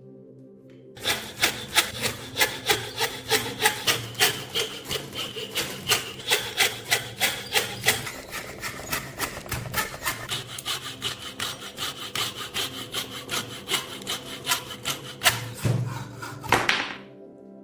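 Rapid back-and-forth scraping strokes of a hand tool worked over the old rusted knife, about three strokes a second. They start about a second in and stop abruptly near the end.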